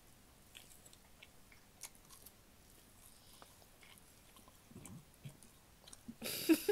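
Faint chewing and biting of breaded chicken nuggets by several people, with a few soft mouth clicks. Laughter breaks out near the end.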